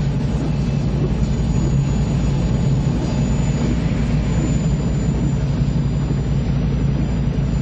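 Helicopter in flight: a steady, loud, low drone of rotor and turbine engines.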